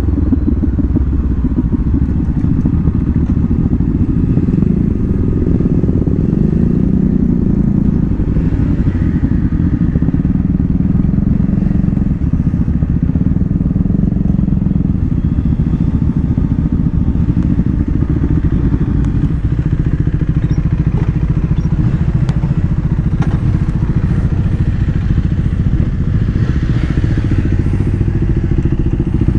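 Honda CBR500R's parallel-twin engine running at low speed, then idling steadily from about halfway through.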